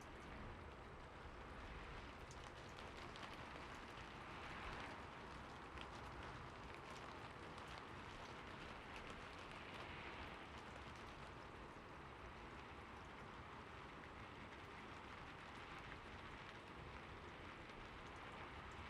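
Quiet, steady rainfall with individual drops heard hitting a surface, swelling a little every few seconds.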